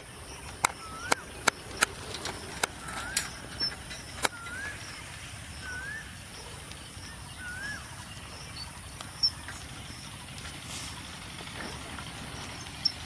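A bird repeating a short rising whistle every second or two, over steady low background noise. A quick series of sharp clicks, the loudest sounds, runs through the first few seconds, with a couple more later.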